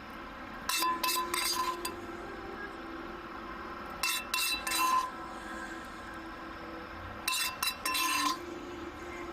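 Metal utensil clinking against cookware in three short bursts of sharp, ringing clinks: about a second in, around four seconds, and near the end.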